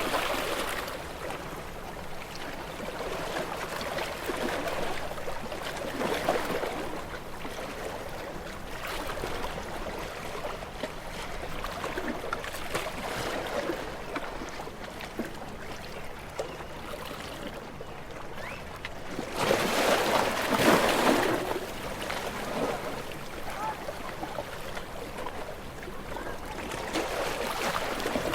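Small waves washing up on a shore, with a continuous hiss of water that swells every few seconds as each wave breaks and runs up, the largest surge about two-thirds of the way in.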